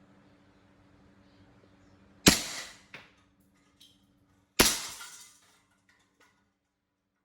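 Colt M1911 airsoft pistol fired twice, about two seconds apart. Each shot is a sharp crack that rings away quickly, with a smaller click shortly after the first.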